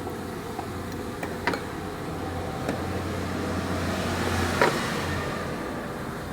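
A steady low rumble, like passing road traffic, swelling a little towards the middle, with two sharp clicks about a second and a half in and near five seconds in.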